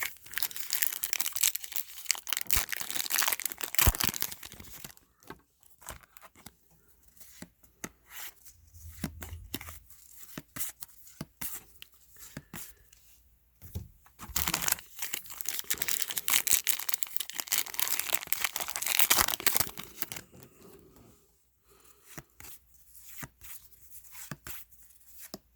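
Trading-card pack wrappers being torn open and crinkled, in two long spells of crackling tearing with quieter rustling and handling between them.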